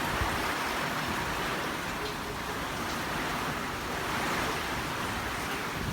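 Hurricane wind blowing steadily, an even rushing noise with no let-up.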